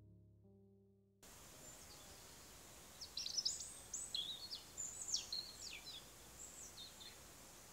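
The last notes of a piano tune die away. Then there is quiet outdoor ambience in which a songbird sings a quick burst of high chirping notes, with a few more short calls a little later.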